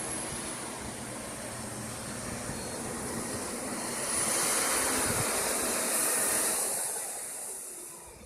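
Dongfeng road sweeper truck running its suction and sweeping gear: a loud rushing hiss with a high whine that builds about four seconds in and fades near the end.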